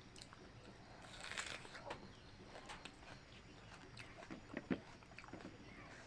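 A person eating: faint chewing and biting with scattered small mouth clicks, a louder noisy stretch about a second in and a few louder mouth sounds a little past the middle.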